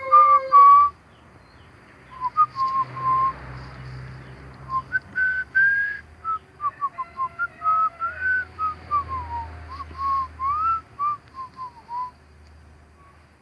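The tail of a rooster's crow in the first second. After that comes a long series of short whistled notes, mid-pitched, sliding up and down in a loose tune.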